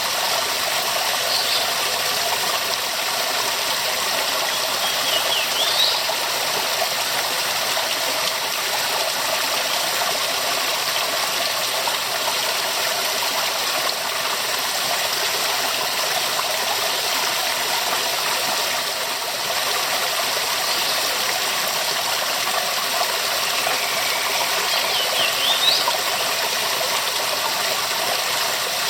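Waterfall: a steady, full rush of falling water. A few brief high chirps rise over it, about five seconds in and again near the end.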